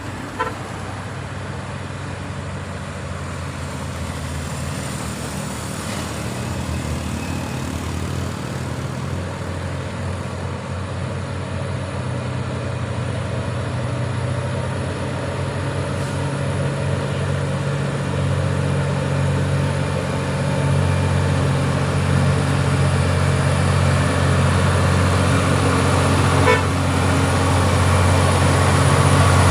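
Truck engine running steadily and slowly growing louder, with a short horn toot near the start and another near the end.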